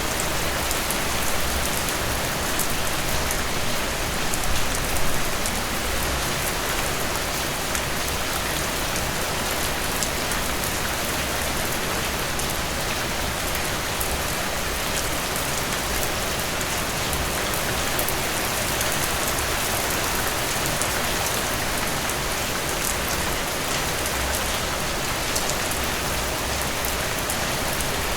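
Steady rain falling on a surface: a dense, even hiss with fine pattering drops throughout.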